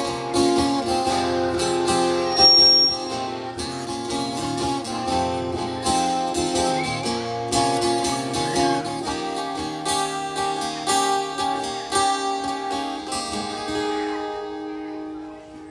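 Instrumental outro of a guitar-led band song: strummed and picked guitar chords with no singing, thinning out near the end to a last chord left ringing.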